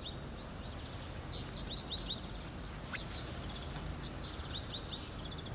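Small birds chirping in quick runs of short, high notes, over a steady low outdoor background noise.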